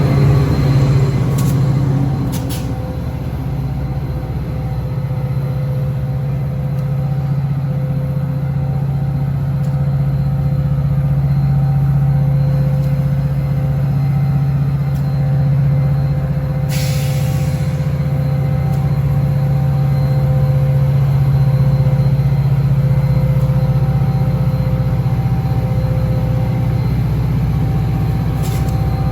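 Metra diesel locomotive running steadily with a deep, even drone. About 17 s in there is a short hiss of air, typical of an air brake.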